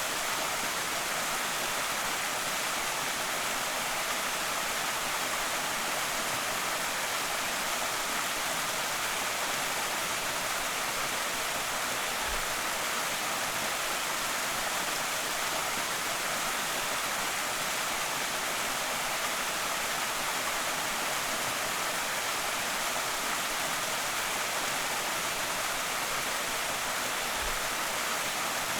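Creek waterfall rushing steadily: an even, unbroken hiss of falling water, bright and airy with little low rumble.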